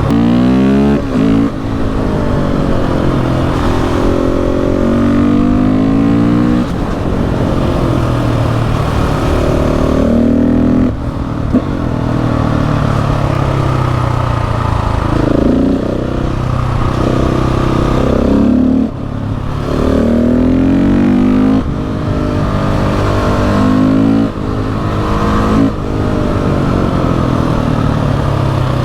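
KTM 690 SMC R's single-cylinder engine under hard acceleration, the revs climbing again and again through the gears with brief drops at each shift.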